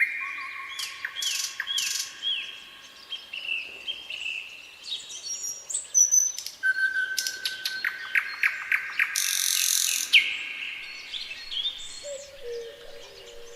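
Several songbirds singing and calling together, with overlapping whistled and chirped phrases. A fast trill comes about seven seconds in, followed by a harsh, buzzy call. A low held note enters near the end.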